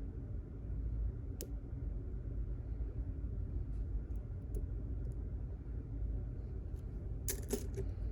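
Faint metallic clicks of a lock pick and tension wrench working the pins of a pin-tumbler lock: a single click early on, then a quick cluster of clicks near the end, over a steady low hum. The picker is struggling to get a good bite under pin 2.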